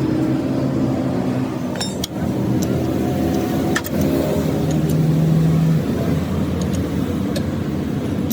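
An engine running steadily, broken by a few sharp metallic clicks and knocks.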